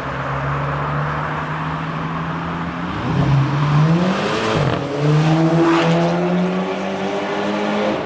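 Volkswagen Golf 6 GTI's turbocharged 2.0-litre four-cylinder running through an aftermarket downpipe and exhaust. It holds a steady note, rises in pitch about three seconds in, gives a short rasping burst about four and a half seconds in, then holds a steady, higher note.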